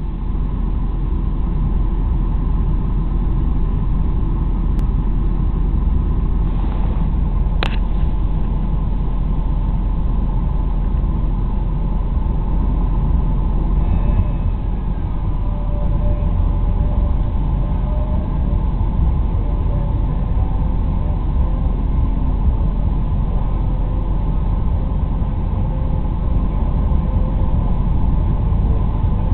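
Steady low rumble of a moving vehicle, with a single sharp click about eight seconds in.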